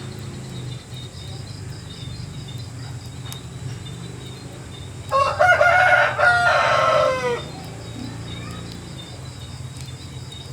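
A rooster crowing once, about halfway through: a drawn-out crow lasting a little over two seconds that ends in a falling note. Underneath there is a steady low hum and faint, rhythmic insect chirping.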